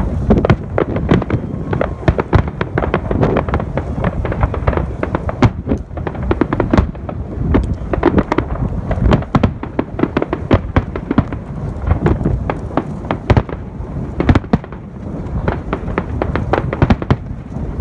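Fireworks going off in a dense, continuous barrage of bangs and crackles, several reports a second.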